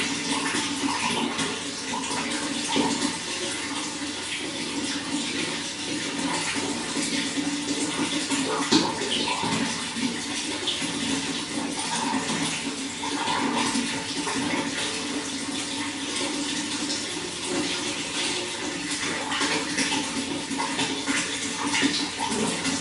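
Running water flowing steadily, with small irregular splashes throughout.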